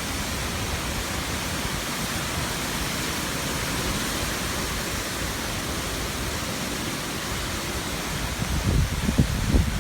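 Hurricane-force wind rushing steadily through the gap between buildings. Heavy gusts buffet the microphone with low rumbling thumps near the end.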